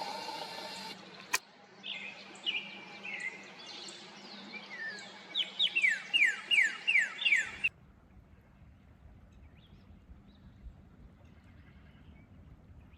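Songbirds singing, with quick runs of sharp, downward-slurred whistled notes, and a single click about a second in. The sound cuts off abruptly about seven and a half seconds in, leaving only faint outdoor background.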